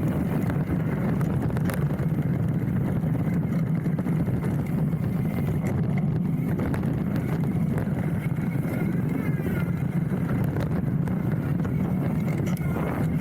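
Hardtail mountain bike rolling fast down a dirt trail, picked up by a handlebar-mounted camera: a steady low tyre roar with the bike rattling over the bumps.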